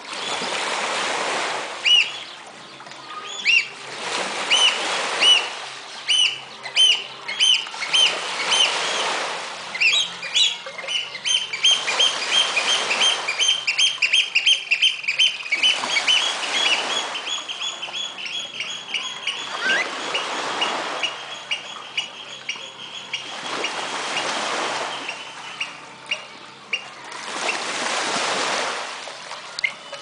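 Birds calling with short, sharp, high piping notes that run together into a fast series of about four a second through the middle. Surges of rushing water come and go every few seconds.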